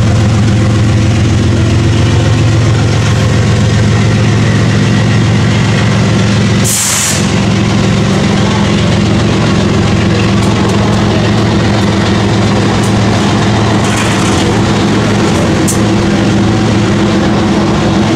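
BNSF freight train's diesel locomotives running past close by with a steady, loud low drone as the train rolls on into its double-stack container cars. A brief hiss comes about seven seconds in.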